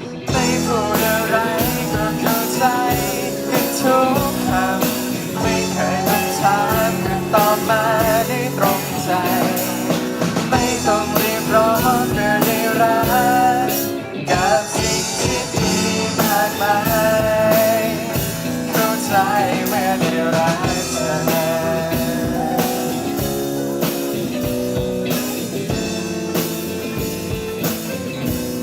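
Live band playing a Thai pop song: a drum kit keeping a steady beat under sustained chords and a wavering lead melody line, with a brief drop in level about halfway through.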